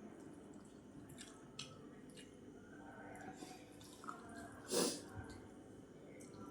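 Close-up eating sounds of rice and vegetable curry: small wet clicks of chewing and mouth smacks, with one louder wet smack or slurp about five seconds in.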